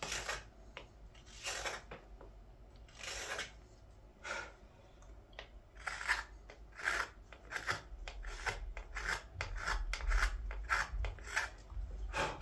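Carving knife taking cuts from a green-wood ladle, each stroke a short shaving rasp. The strokes are spaced out at first, then come faster, about two a second, from about halfway through.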